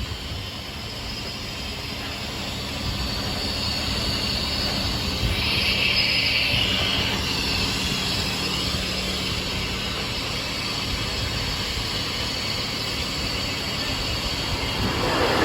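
A motor or machine running steadily with a low hum, getting louder about three seconds in, with a higher hiss for a few seconds in the middle.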